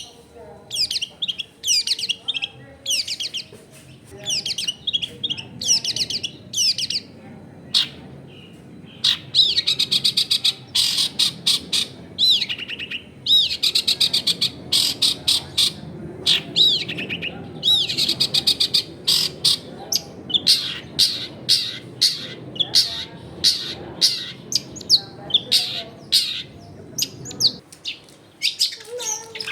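Long-tailed shrike (cendet) singing loudly: quick runs of sharp, chattering and whistled phrases packed with mimicked notes, in bursts with a brief pause about eight seconds in.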